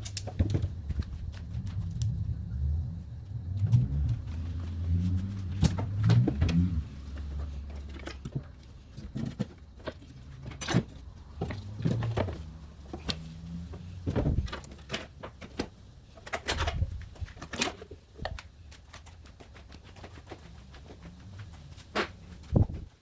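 Irregular metal knocks and clunks with low, uneven creaking as an engine and gearbox are worked loose and lifted with an engine crane and chain slings.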